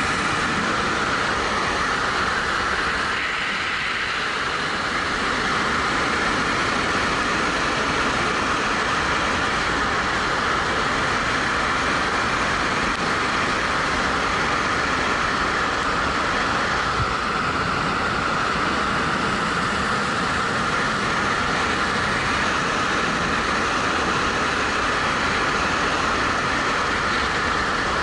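Steady wind rush over a helmet-mounted action camera while riding a 2013 Suzuki GW250 motorcycle, its small twin-cylinder engine running underneath. The noise stays level throughout, with a slight dip about three to four seconds in.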